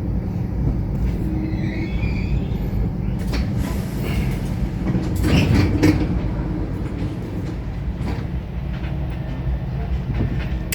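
Passenger train heard from inside the carriage: a steady low rumble of the train running on the rails, with scattered knocks and a louder clatter about five seconds in.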